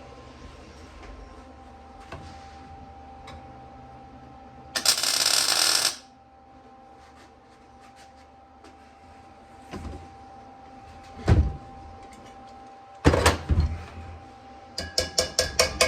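Workshop sounds: a loud burst of hiss-like noise lasting about a second, then a couple of sharp metal clanks. Near the end, music with a steady knocking beat of two or three strokes a second begins.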